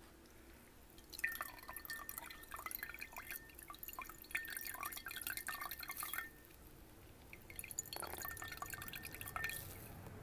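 Water dripping and splashing in a drinking glass: many quick small clicks with a faint ringing of the glass. It comes in two spells, starting about a second in, stopping about six seconds in, and resuming at about eight seconds.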